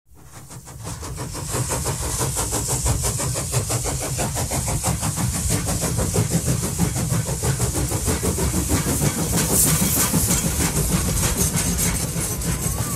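Electric suburban train running, a steady rumble and hiss that fades in at the start.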